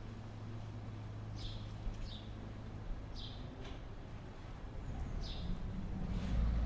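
Low, steady rumble of snowstorm wind, with about four short, high chirps from a bird scattered through it. Near the end the low rumble grows louder.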